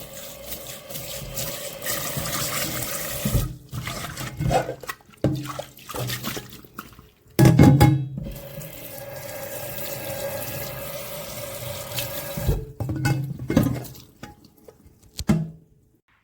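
Kitchen tap running into a sink while a nonstick pot is washed by hand, with several louder bumps and clatters of the pot in the sink. The sound cuts off suddenly just before the end.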